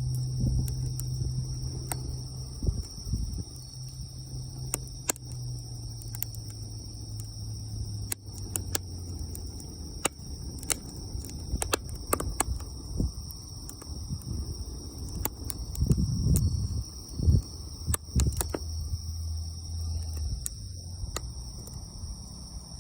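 Wood fire crackling, with irregular sharp pops and snaps, over a steady high-pitched insect chorus.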